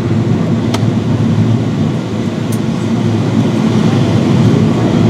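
Steady roar inside the cabin of a Boeing 777-300ER in descent: airflow over the fuselage and the GE90 engines, a continuous low rumble, with a couple of faint ticks.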